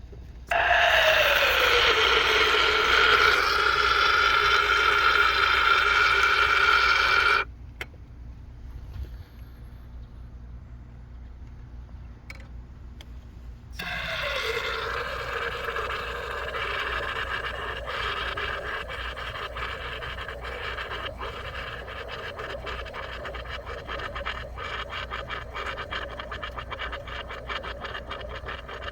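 Aerosol can of foam carburetor cleaner spraying through an extension nozzle into an engine's spark plug hole to clean carbon from the combustion chamber. There is a loud hissing, whistling burst of about seven seconds, then after a pause a second, quieter spray with a sputtering crackle.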